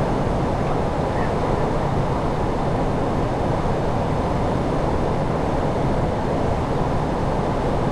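Steady rushing noise on the flight deck of an Airbus A340-600 on approach, airflow and engine noise at an even level with no distinct events.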